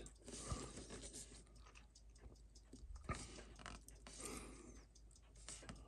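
Faint small clicks and handling taps of watchmaker's hand tools working on a Seiko 6105 watch movement, with one slightly sharper click about three seconds in.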